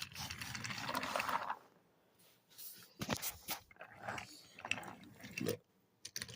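Wooden toy trains being handled on wooden track: scattered clicks and knocks, with a soft hissing noise in the first second and a half.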